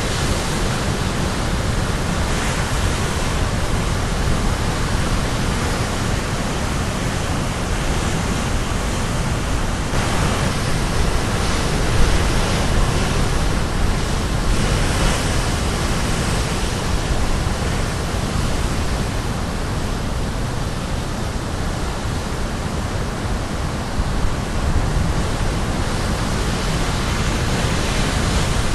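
Caribbean Sea surf breaking and washing on the shore, a steady rushing noise with gentle swells as waves come in.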